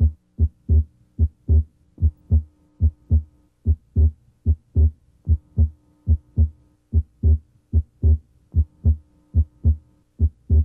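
Heart sounds heard through a stethoscope diaphragm at the left sternal border: a regular lub-dub of S1 and S2, about 75 beats a minute. The second sound is split abnormally wide, the split coming and going with deep breathing. A faint steady hum lies underneath.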